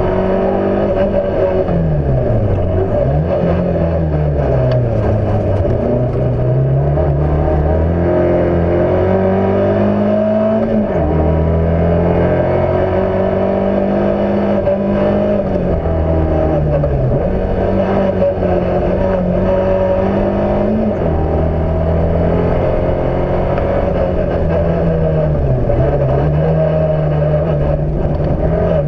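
Fiat Cinquecento's engine heard from on board at racing pace, its pitch climbing under acceleration and falling off several times as it lifts and changes gear through the corners.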